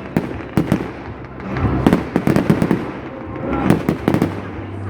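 Fireworks going off: a rapid string of sharp bangs and crackles, thickest about two seconds in and again near the end.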